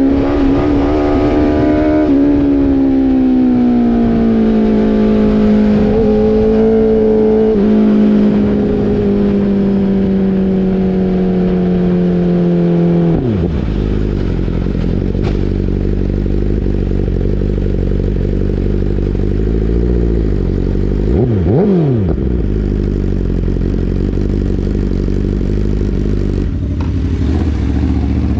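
Motorcycle engine running hard at high revs, its pitch easing slowly down for about thirteen seconds, then dropping sharply as the throttle closes. It then runs at a lower steady note over a low rush, with one quick rev up and down about twenty-one seconds in.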